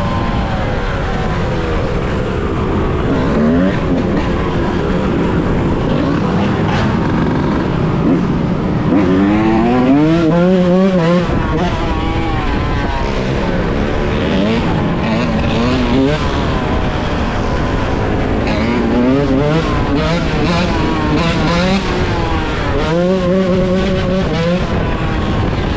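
Yamaha YZ125's two-stroke single-cylinder engine revving up and down repeatedly while being ridden. Its pitch climbs hard around ten seconds in and holds high near the end.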